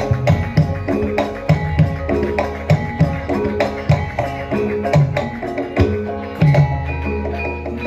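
Javanese gamelan music: ringing metallic pitched tones in a repeating pattern over regular hand-drum strokes.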